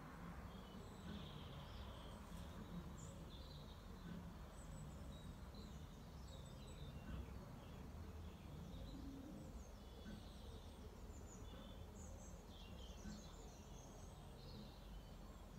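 Faint birdsong: many short chirps and twitters scattered throughout, over a low, steady rumble of background noise.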